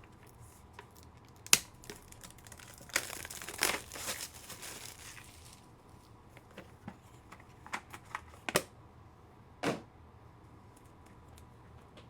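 Plastic card packaging being handled: a sharp click, then a couple of seconds of crinkling and tearing plastic, then a few more clicks and taps as cards are unwrapped and set down.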